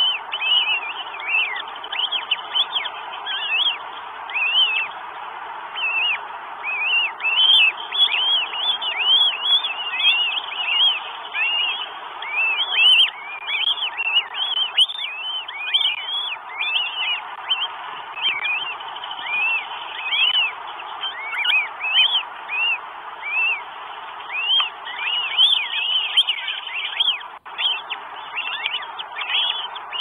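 Birds calling continuously, a rapid series of short, high, arched call notes several times a second, over a steady hiss.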